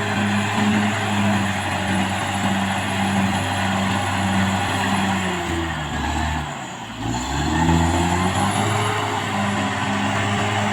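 Caterpillar D6R XL bulldozer's diesel engine running steadily under load. A little past halfway the engine note sinks and goes briefly quieter as the revs drop, then climbs back to full revs. A thin high whine over the engine fades out in that dip and comes back.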